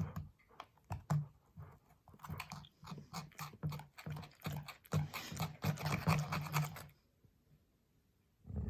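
A dog chewing and gnawing on something with crunching clicks, mixed with short low growls; it goes quiet about seven seconds in, and a louder low growl starts right at the end.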